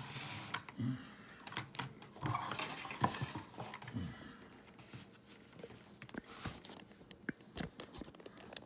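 Scattered light clicks and clatter of plastic Hot Wheels Track Builder pieces and launcher being handled, with a few short, low sounds in the first half.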